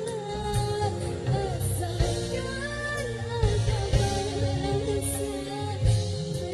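Female singer's voice with ornamented, wavering melody lines over a dangdut band accompaniment with a steady drum beat.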